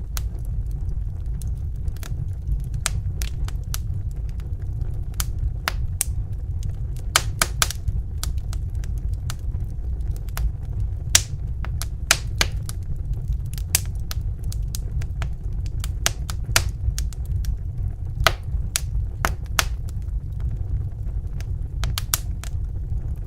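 Wood fire crackling: sharp, irregular snaps and pops, a few a second, over a steady low rumble of the burning logs.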